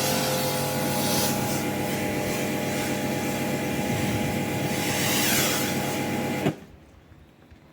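Electric pressure washer running with its jet spraying, a steady motor hum under a spray hiss, then cutting off suddenly about six and a half seconds in as the trigger is released.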